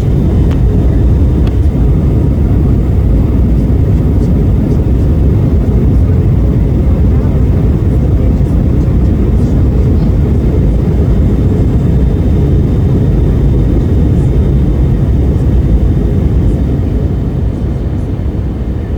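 Steady, deep drone of an aircraft in flight, even throughout and easing off slightly near the end.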